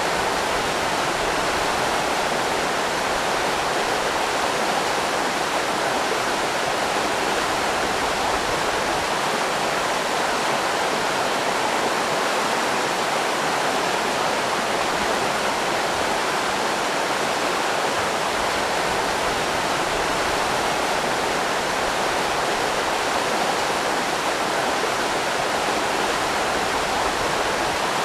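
River rapids rushing: a steady, unbroken roar of fast-flowing water.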